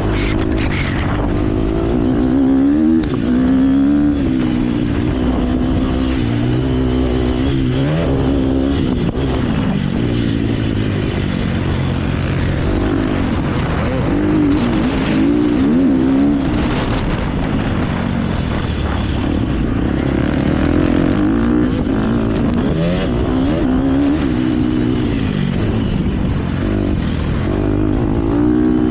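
KTM motocross bike engine revving up and dropping back again and again as the rider goes through the gears and on and off the throttle.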